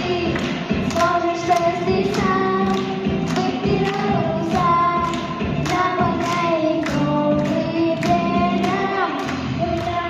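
Song with a steady beat and voices singing, children's voices among them.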